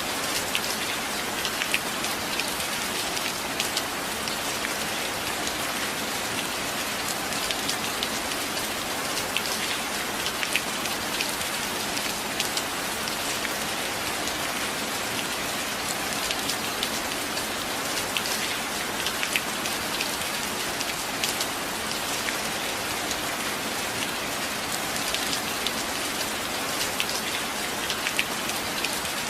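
Steady rain: an even hiss with frequent sharp drop ticks scattered through it.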